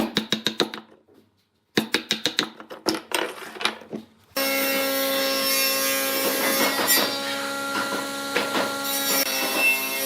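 Quick wooden knocking and tapping, then from about four seconds in a woodturning lathe running steadily with a tool scraping the spinning wood.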